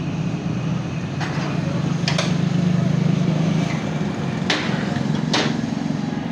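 Steady low engine hum with about four sharp metallic clinks spread across a few seconds, as metal motorcycle parts are handled.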